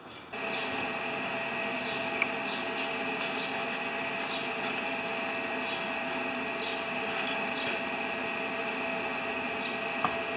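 Flux-core wire welder running a steady crackling, buzzing arc while welding a leaking steel muffler. It starts abruptly just after the opening, with two sharp pops, one about two seconds in and one near the end.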